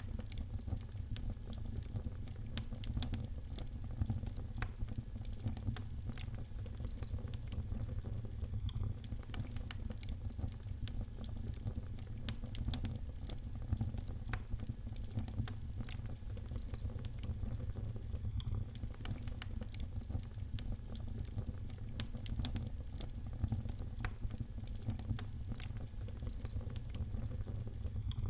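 Wood fire burning in a fireplace, crackling with frequent small pops over a steady low rumble of the flames.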